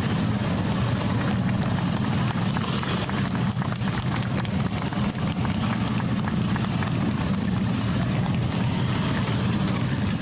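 A group of Harley-Davidson police motorcycles with V-twin engines running steadily at low speed as they ride in close formation.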